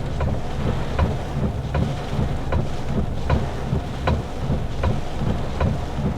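Inside a car cabin in the rain: a steady low rumble of engine and road, with a regular tick a little more than once a second throughout.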